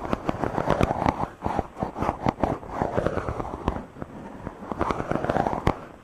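Fingers rubbing directly on a microphone: dense scratchy crackling and swishing in repeated strokes that swell and fade.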